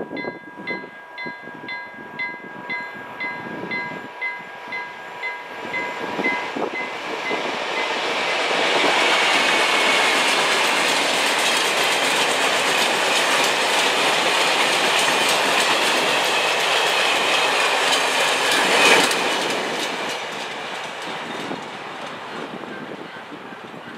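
Level-crossing warning bell ringing with evenly repeated strokes, about two a second, as a freight train approaches. The train of covered freight wagons then rolls through the crossing, loud for about ten seconds with its wheels clicking over the rails and a sharp bang near the end, then fading as the last wagons pass.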